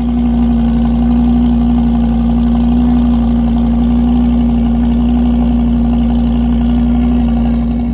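A car engine held at steady revs, one loud unchanging pitch that eases off slightly near the end.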